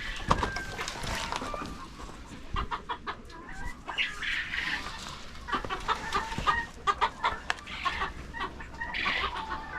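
Chickens clucking, with many short calls overlapping and scattered light clicks and taps.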